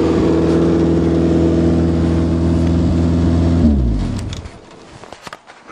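Chevrolet car engine idling steadily just after a cold start at −16 °C, then switched off about three and a half seconds in, running down quickly. A few sharp clicks follow near the end.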